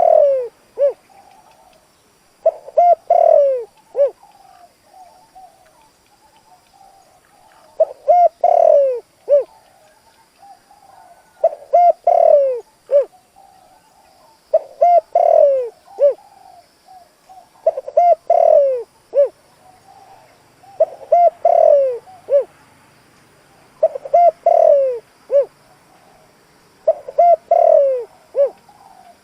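Spotted dove cooing: about nine phrases repeated every three seconds or so, each a few short coos, a longer note sliding down, and a short closing coo.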